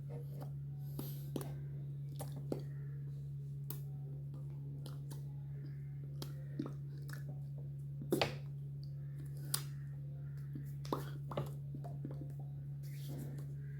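A steady low hum with scattered small clicks and taps, a sharper cluster about eight seconds in.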